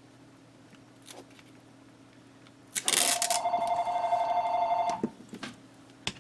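Telephone ringing: one steady two-tone ring about two seconds long, starting about halfway through.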